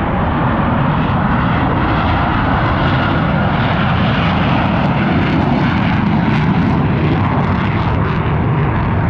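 Loud, steady aircraft engine noise from a plane flying at an air show.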